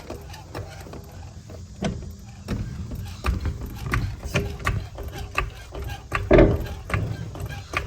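Jack being worked to lift a heavy motorhome: a run of mechanical clicks and clanks, several a second, with a louder thump about six seconds in.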